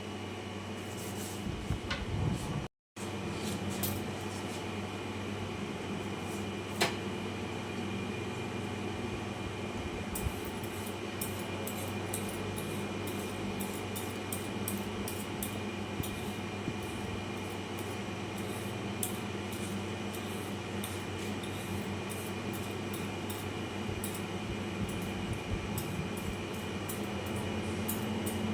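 Steady background hum with scattered light clicks and taps of things being handled, the taps growing frequent from about ten seconds in.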